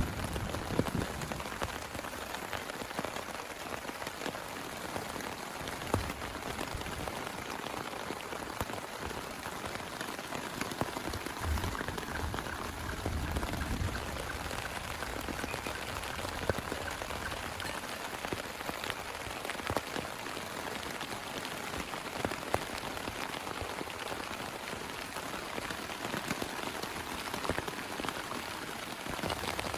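Heavy rain falling steadily, a dense hiss dotted with the hits of individual drops.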